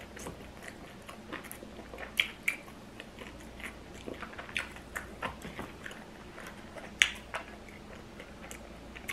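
A person chewing a mouthful of loaded nachos close to the microphone: a run of short, sharp mouth clicks and smacks, with the loudest snaps about two seconds in and again about seven seconds in.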